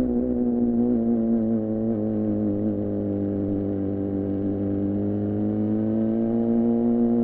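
2014 Yamaha R6 inline-four running through an R9 titanium muffler and Leovince header under way: a steady high engine note that eases slightly at first, holds, then climbs gradually over the last couple of seconds as the revs rise.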